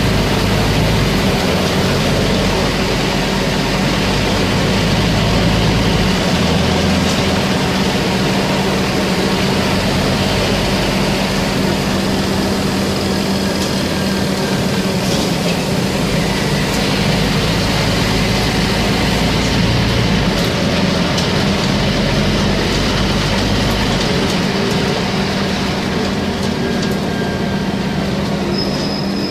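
Scania CN270UB city bus on the move, its diesel engine running steadily with a constant hum. The deep engine note changes several times as the bus speeds up and slows down.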